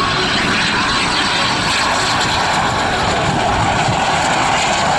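F-86 Sabre jet fighter flying in a display, its jet engine making a loud, steady noise.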